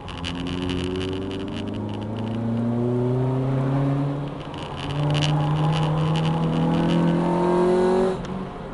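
Honda Civic EJ9 engine heard from inside the cabin, pulling hard with its pitch climbing for about four seconds. It dips briefly at an upshift, climbs again, then drops off sharply near the end as the driver lifts.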